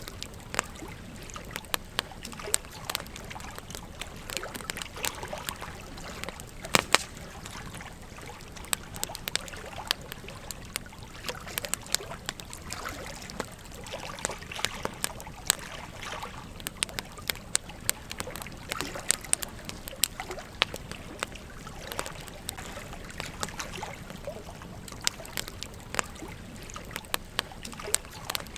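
Wood campfire crackling with frequent irregular sharp pops, one louder pop about seven seconds in, over the steady trickle of a gentle stream.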